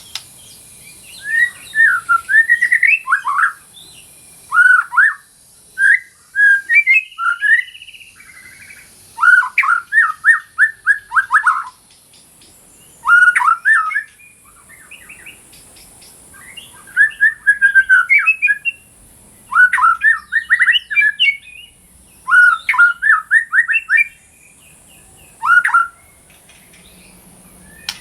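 White-rumped shama (murai batu) singing loudly: about nine phrases, each a rapid run of repeated sweeping whistled notes, with short pauses between them.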